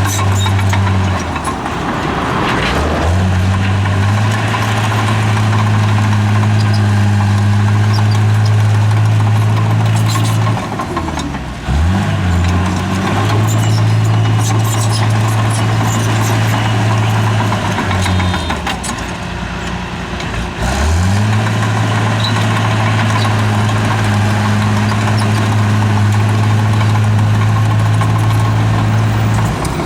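Bulldozer's diesel engine running steadily. Its pitch drops and climbs back three times: near the start, about a third of the way in, and around two-thirds of the way through.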